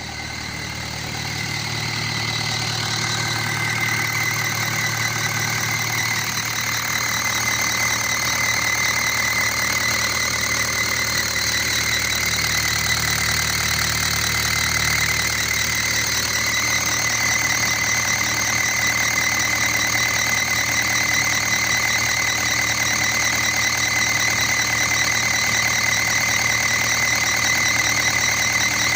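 Four-cylinder diesel engine running steadily with a faulty knocking noise, getting louder over the first few seconds, with a steady high whine over the running.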